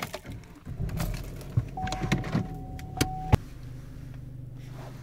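Chevy Cruze 1.4-litre turbo four being started: clicks and a rumble for about two seconds with a steady chime tone over it, then a sharp click and the engine settles into a steady low idle hum.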